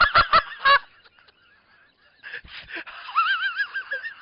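A man laughing hard in high-pitched, wheezing, honk-like bursts: a quick run of laughs at the start, then, after a short pause, a long squealing laugh that wavers up and down.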